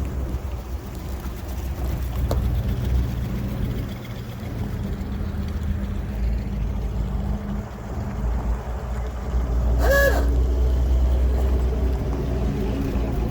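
Car engines rumbling low as cars roll past, the sound swelling and fading. About ten seconds in there is one short pitched call, a horn toot or a bird's caw.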